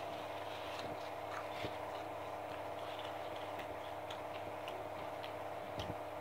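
Quiet eating sounds: chewing and small mouth and finger clicks while handling food, scattered faint ticks over a steady background hum.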